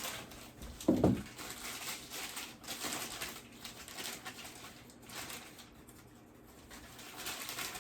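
Packaging being rustled and handled while boxed items are opened and sorted, with a brief low sound about a second in.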